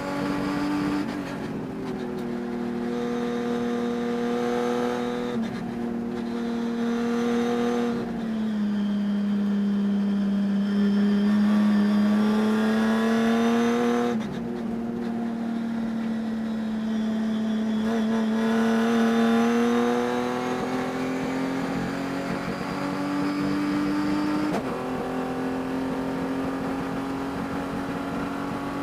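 Race car engine running hard at speed, its pitch climbing and dropping with several sudden changes as the driver shifts and lifts. The engine had a high-RPM miss during this race that the driver says can be heard.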